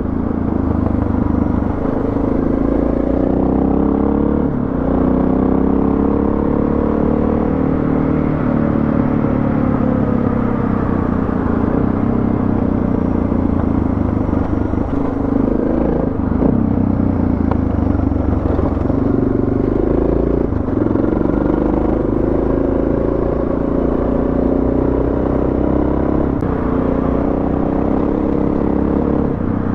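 Suzuki DR650's single-cylinder engine running under way on a gravel road, its note rising and falling with the throttle and gear changes.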